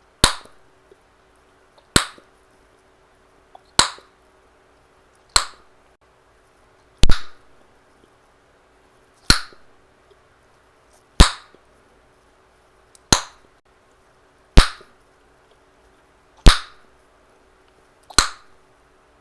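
Chewing gum being snapped in the mouth: a sharp pop about every one and a half to two seconds, eleven in all.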